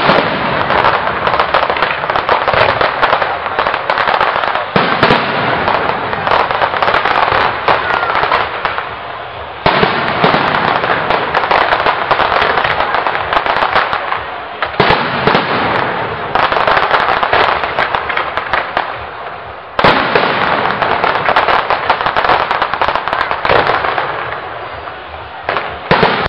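Aerial fireworks display: shells bursting in a dense, continuous crackle of bangs and pops, with a sudden fresh surge of bursts about every five seconds.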